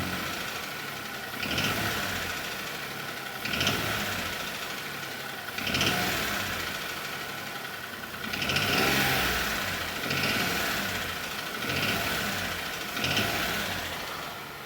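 Hyundai HB20's 1.0 three-cylinder engine idling and revved in short throttle blips, about eight times, with the light knock that the mechanic suspects is a loose piston pin.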